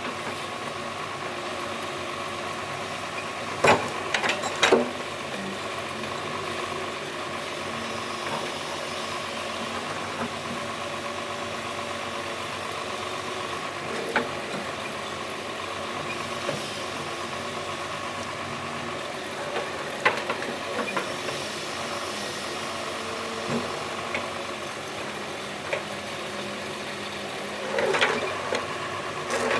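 An engine running steadily, with a few sharp clanks: two about four seconds in and another near the end.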